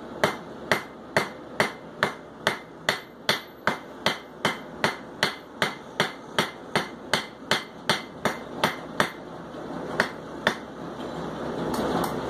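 Hand hammer striking hot steel on an anvil while forging a leaf: a steady run of about two dozen sharp blows, roughly two and a half a second, then a pause and a few single blows near the end. A steady rushing noise builds up in the last couple of seconds.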